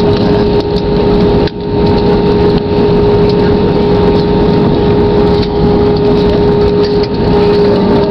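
Airbus airliner's jet engines running with a loud, steady hum over a constant rush of noise, dipping briefly about a second and a half in.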